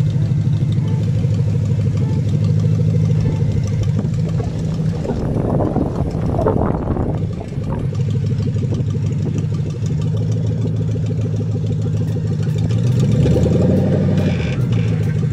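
Lexus 3UZ-FE V8 in a Mercedes C230 coupe idling steadily, with a brief rev about six seconds in. Near the end the engine note rises and falls as the car pulls away.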